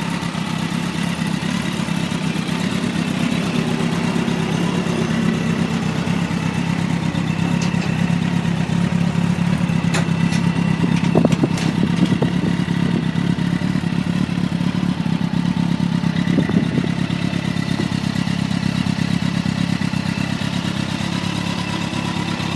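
2010 Kawasaki ZZ-R1400's inline-four engine idling steadily through an aftermarket BEET full exhaust system. Its level swells briefly about halfway through and again a few seconds later.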